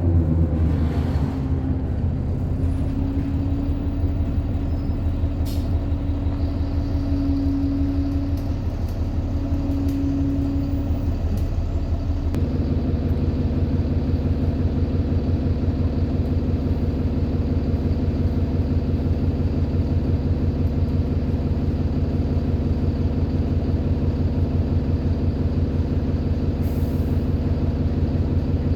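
Alexander Dennis Enviro 400 double-decker bus engine slowing down. A steady whine that sounds like a tram holds until about 11 s in, then the engine runs at an even idle for the rest. There is a brief hiss of air near the end.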